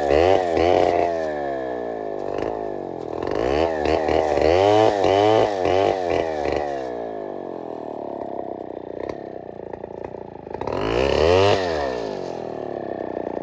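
Chainsaw engine revved up and down over and over, its pitch climbing and falling, then running lower and steadier before one more rev about eleven seconds in.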